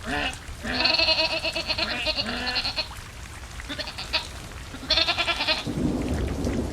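Livestock bleating: a series of wavering, drawn-out calls, four or five in all. Near the end a low rumble of thunder with rain comes in.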